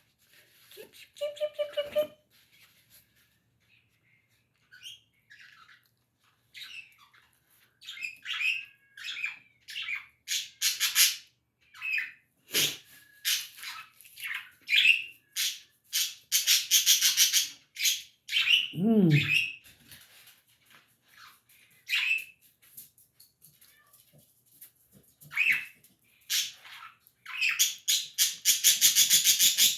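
Small birds chirping and chattering in quick, harsh bursts, with busy spells of rapid calls. A low falling sound comes once, about two-thirds of the way through.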